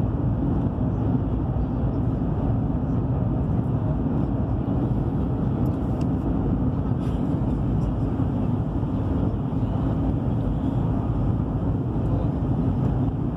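Cabin noise of a Chinese high-speed train running at speed: a steady low rumble and rush of wheels on track and air past the body, heard inside the passenger car.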